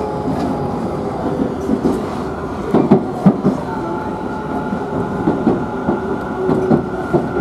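Electric commuter train running on rails: a steady rumble with irregular clicks and knocks of the wheels over rail joints, and a steady whine that comes in about halfway through.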